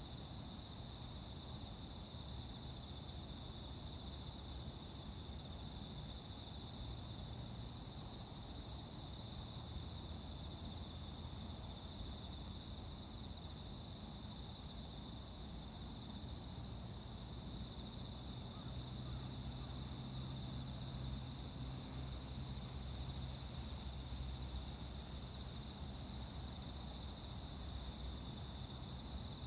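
Chorus of autumn insects singing steadily: two continuous high trills, with a faster pulsing song between them. A low, steady rumble lies underneath and grows a little louder past the middle.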